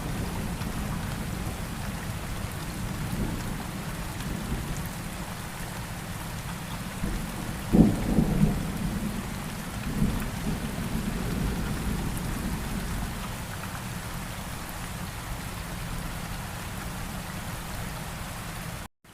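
Steady rain with low rolling thunder, a sharper thunderclap about eight seconds in and a smaller rumble about two seconds later. The sound cuts out for an instant near the end.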